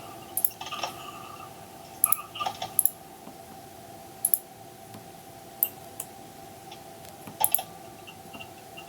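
Irregular sharp clicks of a computer mouse and keyboard, about ten in all, some in quick pairs, over a faint steady hum.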